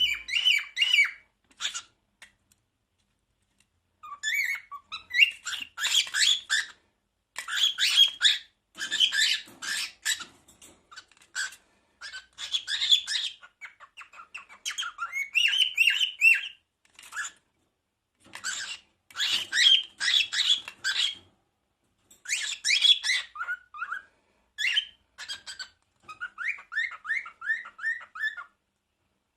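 Pet cockatiel chattering, chirping and whistling in short phrases with brief pauses between them. Near the end there is a quick run of repeated chirps.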